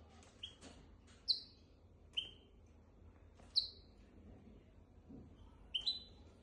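Hybrid finch giving short, separate chirps, about six over the span, each a quick note that drops and levels off; two are louder than the rest.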